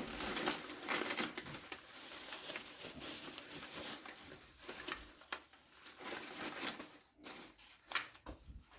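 Packing material and a cardboard box being handled by hand during unpacking: a continuous run of crinkling, rustling crackles, thinning out toward the end with a few sharper clicks.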